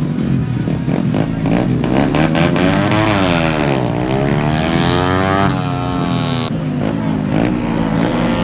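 Several motorcycle engines running hard at high revs. Their pitch dips and climbs again around the middle as they accelerate and pass.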